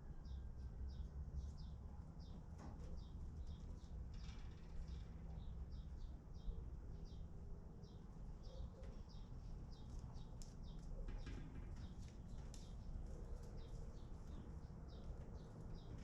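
High-pitched bird chirps repeated steadily, two or three a second, over a faint low hum.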